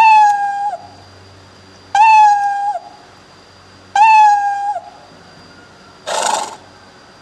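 A recorded cat meow sound effect played three times, two seconds apart, each call identical and just under a second long. About six seconds in comes a short burst of noise.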